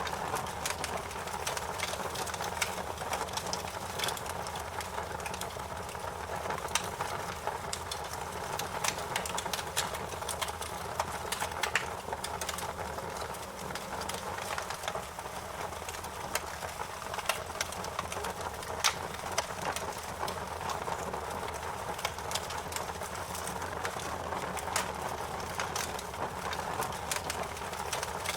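Wood fire crackling: frequent sharp pops and snaps over a steady hiss and low rumble of the flames.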